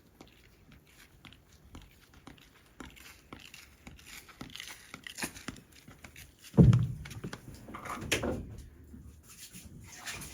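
Scattered small knocks and rustling in a small room, with one loud, deep thump about two-thirds of the way through and a lighter knock a second or so later.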